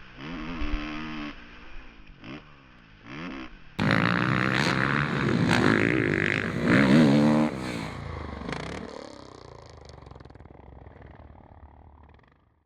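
Suzuki RM-Z450's fuel-injected 450cc single-cylinder four-stroke motocross engine revving on and off the throttle in short rising and falling blips. It gets louder from about four seconds in, then fades away and cuts off near the end.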